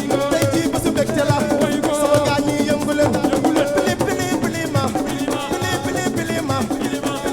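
Assiko band music: fast, dense hand percussion under a steady melodic line.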